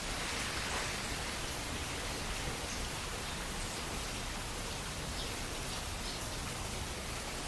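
Steady rain falling, an even hiss with a few faint individual drops.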